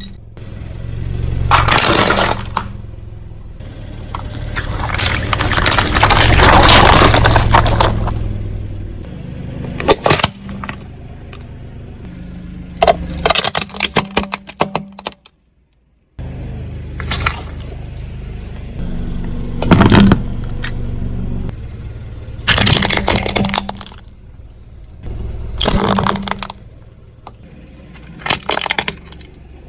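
A car idles and creeps forward while objects crack and crunch under its tyre, in several separate bursts of sharp cracking and breaking. Between them come swells of tyre and engine noise, and there is a sudden silent gap about halfway through.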